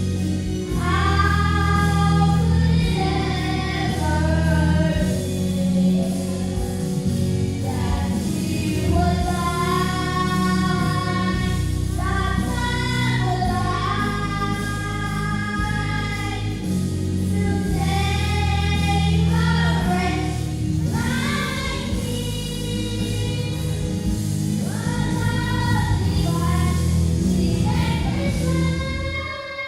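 Gospel song: singing over instrumental backing with a steady bass line. The music dips briefly just before the end.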